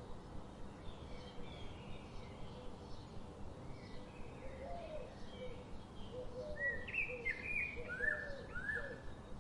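Several songbirds chirping and singing over a steady rushing noise from a river. A louder run of sweeping notes comes in past the middle.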